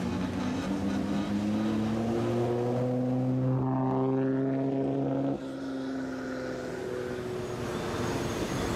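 A Nissan Skyline GT-R's engine driving slowly past close by, its note rising steadily as it pulls away. About five seconds in the level drops abruptly and a second car's engine carries on at a steadier pitch.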